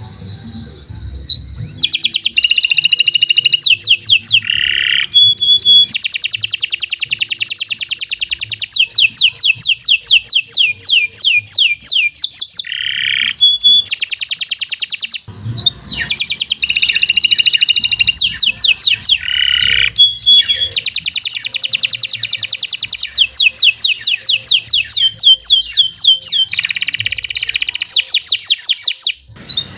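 Domestic canary singing a long, loud song of rapid high trills and rolling note runs, broken by brief pauses about halfway through and near the end.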